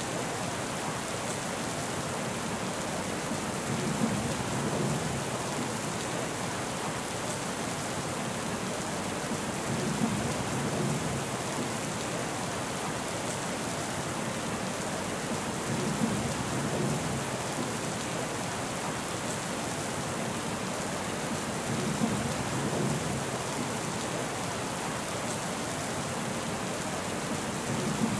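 Steady rain falling, an even hiss, with a low rumble swelling up about every six seconds.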